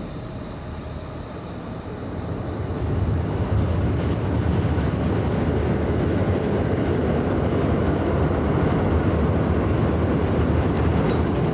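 Train crossing a steel truss railway bridge: a steady rumble that swells about three seconds in and stays loud.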